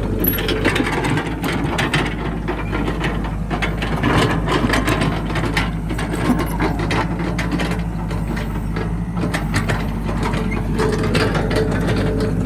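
Caterpillar 312B excavator at work: its diesel engine running steadily under a constant clatter of metal clanks and knocks, with a steady whine coming in about eleven seconds in.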